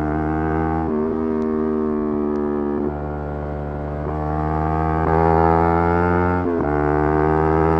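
Yamaha R3 motorcycle's 321 cc parallel-twin engine running hard at high revs, its note slowly climbing, with short breaks about a second in, near three seconds and around six and a half seconds where gears are changed.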